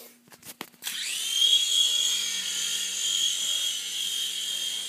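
A few clicks of handling, then about a second in a toy airplane's small electric motor and propeller spin up to a steady high-pitched whine.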